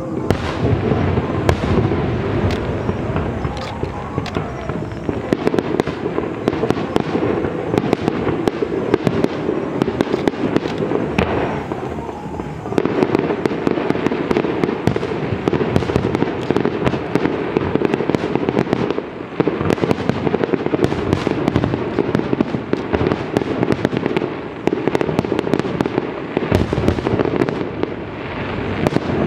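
A fireworks display in a dense, continuous barrage of overlapping bangs and crackling, with a few brief lulls.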